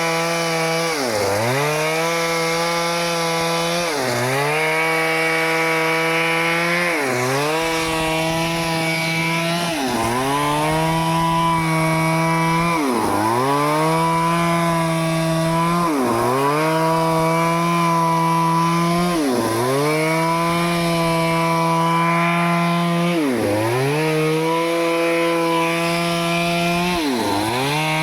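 Stihl chainsaw running at high revs while cutting teak wood. Its engine pitch drops sharply and comes straight back up about every three seconds, nine times.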